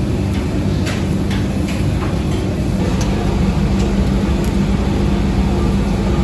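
A steady low mechanical hum, with a few light clicks in the first three seconds.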